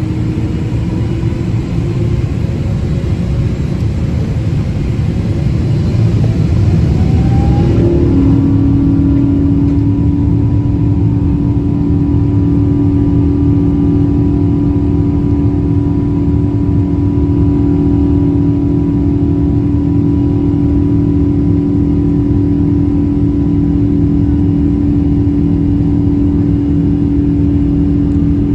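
Boeing 777 jet engines spooling up: a rising whine about seven seconds in, then holding at takeoff thrust as a loud, steady rumble with a strong steady hum over it.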